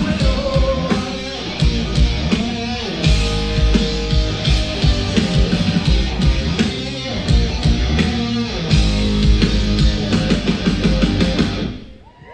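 Hard rock band playing live: electric guitar, bass and drums, cutting off near the end as the song ends.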